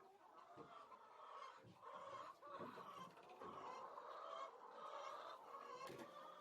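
Faint, continuous chatter of a flock of chickens clucking and calling over one another in the poultry house, with a few soft knocks.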